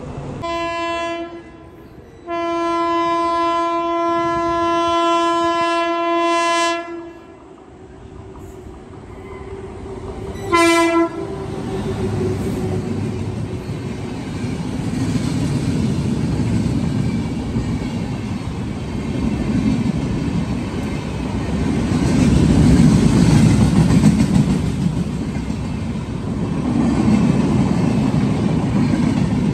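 Train horn sounding a short blast, a long blast of about four seconds, then another short blast a few seconds later. Then a train approaching and running past on the tracks, its noise swelling and staying loud.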